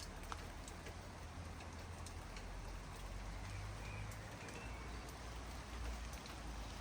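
Steady rain falling, with scattered separate drops ticking and a low steady rumble underneath.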